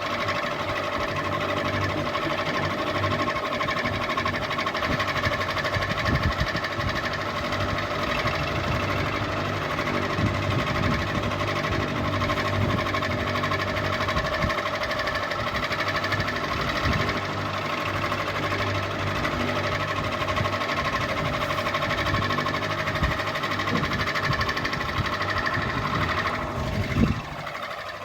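Electric ceiling fan running, with a steady motor hum and whine and irregular low knocking and rattling underneath. Near the end there is a louder knock, and the whine then drops in pitch.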